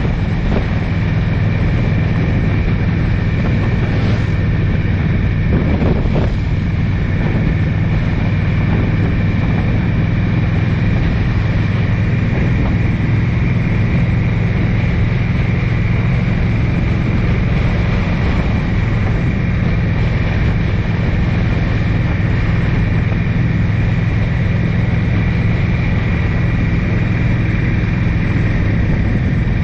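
A vehicle under way: steady engine and road noise, with wind buffeting the microphone.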